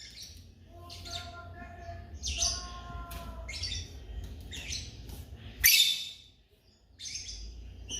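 African lovebirds chirping: a series of shrill, high chirps with a few lower held notes early on, and one loud, sharp call a little past the middle.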